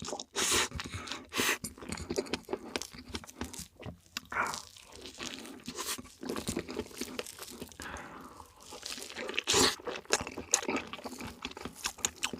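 A person chewing and biting into cake slices, with irregular wet smacks and sharp crunching clicks. A few louder bites come about three quarters of the way through.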